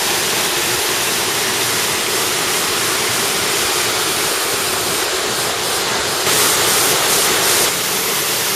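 Rushing water, a steady even rush of noise. About six seconds in, a brighter, slightly louder hiss rises over it for about a second and a half.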